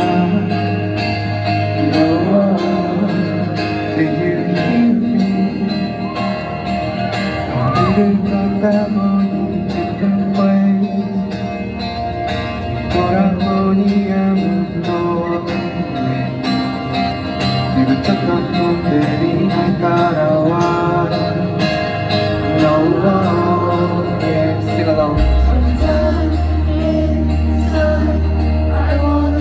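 A rock band playing live, with a male lead vocal sung over guitar and band; a deep bass line comes in strongly near the end.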